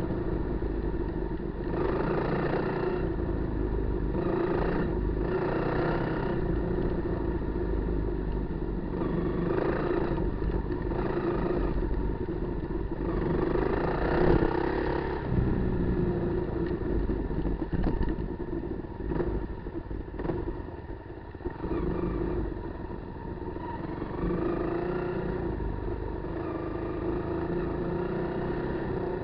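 A Kawasaki KLR250's single-cylinder four-stroke engine running as the bike is ridden off road, with the throttle opened and closed every few seconds. The engine eases off for a couple of seconds about two-thirds of the way through.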